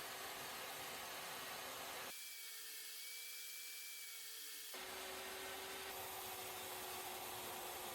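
A power saw running steadily as spline grooves are cut in the box miters; the sound changes abruptly about two seconds in and changes back near five seconds.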